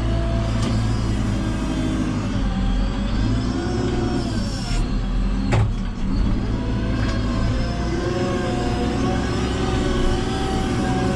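Diesel engine of a JCB 3CX backhoe loader working under load, its revs rising and falling as the hydraulics work. A single sharp knock comes about halfway through.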